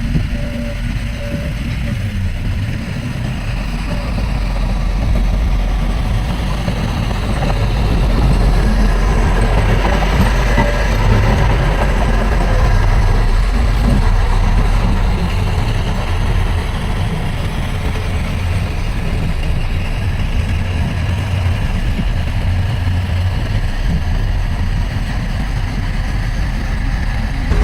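Heavy diesel engine of earthmoving machinery running steadily with a deep rumble, growing somewhat louder about a third of the way in and then easing back.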